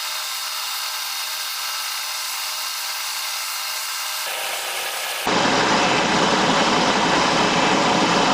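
Milling machine running with a steady whirring hiss. It turns louder and fuller suddenly about five seconds in.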